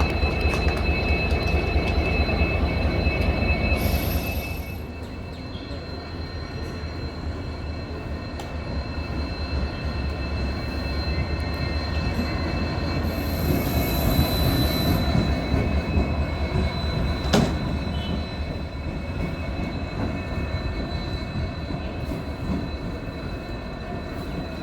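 Passenger train running on the rails, with a steady high-pitched wheel squeal over a low rumble. The rumble drops off about four seconds in, and a single sharp click comes later.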